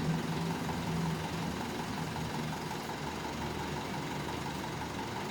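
Heavy vehicle engine running; a louder engine note fades out in the first second and a half, leaving a steady low idle.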